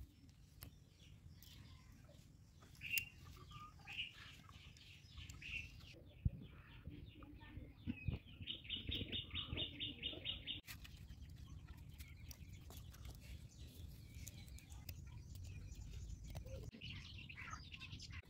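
Faint birds chirping in short high calls, with a rapid trill about halfway through, over a low steady rumble. Small clicks and taps of hand work come and go.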